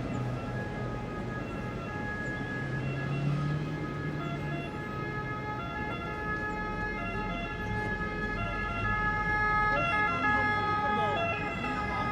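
Emergency vehicle's two-tone siren, its steady pitches switching back and forth, over street traffic rumble.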